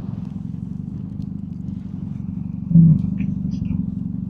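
BMW R1250GSA's boxer-twin engine running steadily under way, a low pulsing hum. A brief, louder low sound comes about two-thirds of the way in.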